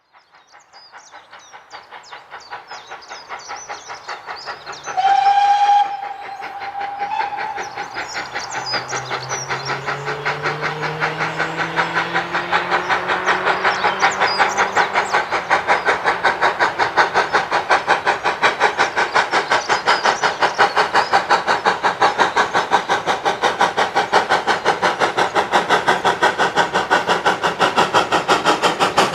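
Steam locomotive giving one short whistle about five seconds in, the loudest moment, then working a train with rapid, regular exhaust beats. The beats grow louder as it approaches, then hold steady.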